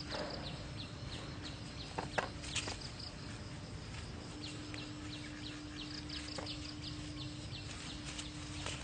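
Small birds chirping: short, high, falling calls repeated a few times a second. A few sharp clicks come about two seconds in, over a faint steady hum.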